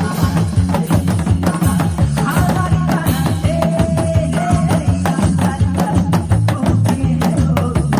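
Korean janggu hourglass drum played in makjanggu style along with a recorded song: dense, rapid drum strokes over a steady beat, with a melody holding one long note near the middle.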